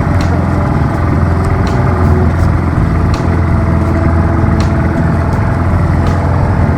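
Boat engine running steadily at a constant speed, a low even drone with occasional sharp ticks.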